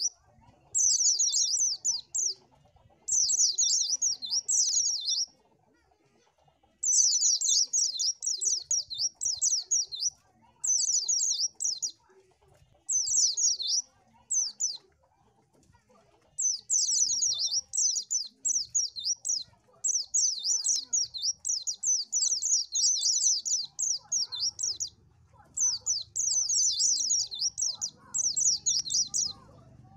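White-eye (pleci) song: bouts of rapid, high-pitched twittering, each a second or two long, separated by short pauses, with two longer pauses of about two seconds.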